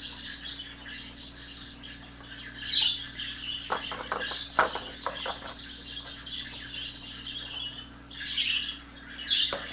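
Budgerigars chattering and chirping continuously: a recording of a budgie flock playing on a laptop, with a pet budgie chirping along. Louder bursts of chirping come and go, and there are a few short sharp clicks about four to five seconds in.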